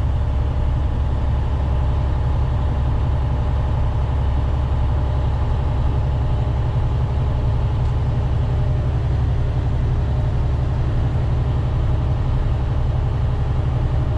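Semi truck's diesel engine running steadily at highway speed, a constant low drone mixed with road noise, heard inside the cab.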